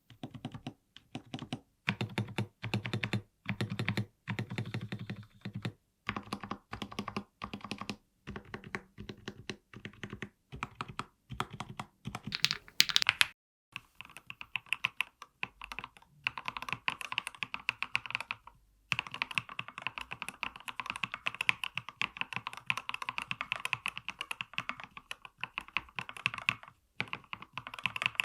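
mStone mechanical keyboard. For about the first thirteen seconds, its large stabilized keys are pressed one at a time with a deep, low thock. After a brief pause, steady fast typing runs across the keys on Milky switches.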